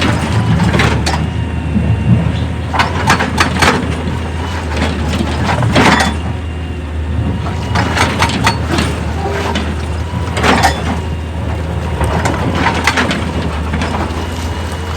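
Heavy rock-working machinery runs with a steady low engine drone while stones crack and clatter in sharp, irregular impacts, bunched in clusters every few seconds.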